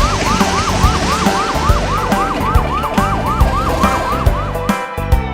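Fire engine siren in rapid yelp, a fast rising-and-falling wail about four times a second, cutting off near the end, over a steady background beat.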